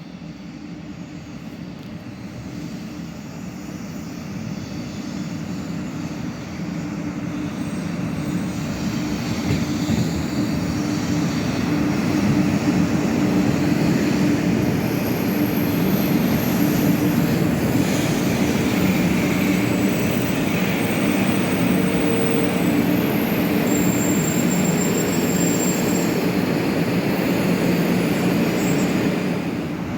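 Sanyo Shinkansen train running through the station, a steady rumble with a low hum that grows louder over the first twelve seconds or so and then holds steady, with faint high whistling tones coming and going in the second half.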